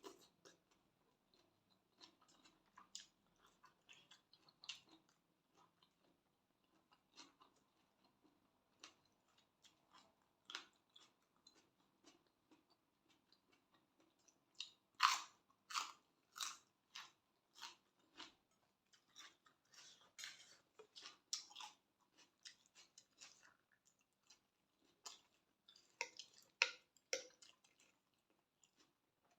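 Close-up chewing and biting of a spicy Thai glass noodle salad (yam woon sen) with seafood. Irregular wet clicks and crunches come in clusters, busiest around the middle and again near the end.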